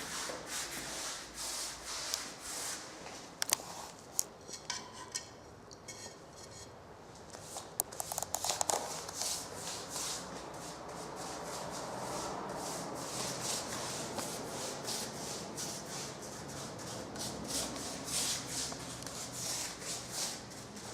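A paintbrush scrubbing varnish onto a carved fireplace in quick, repeated strokes. It eases off for a few seconds about four seconds in, with a couple of sharp clicks nearby.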